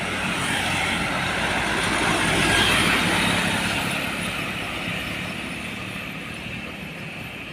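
Heavy diesel truck driving past: engine and tyre noise grow louder to a peak about three seconds in, then fade away.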